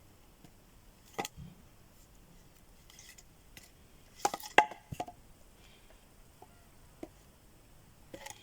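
Sharp wooden knocks and clacks of sticks being handled: a single knock, a quick cluster of three or four about halfway through, then a couple of fainter taps near the end.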